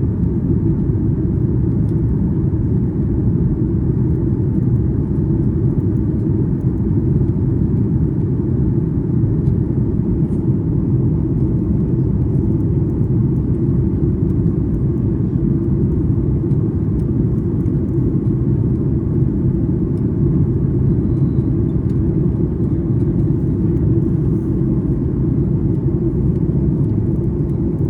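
Steady low rumble of a Boeing 737 MAX 8 heard from inside the passenger cabin, its engines running at an even setting with no change in pitch or level.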